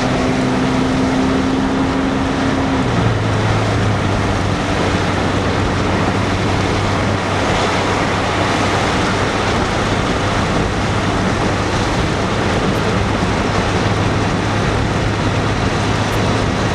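Inside a moving car: steady loud road and wind noise with a low hum underneath, the hum dropping slightly in pitch about three seconds in.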